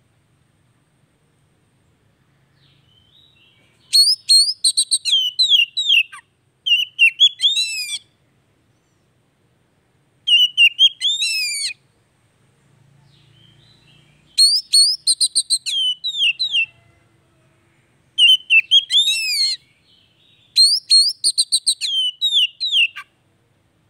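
Oriental magpie-robin (kacer) singing in six loud bursts of quick whistled notes and rapid trills, each burst a second or two long with short pauses between, and softer twittering in some of the gaps.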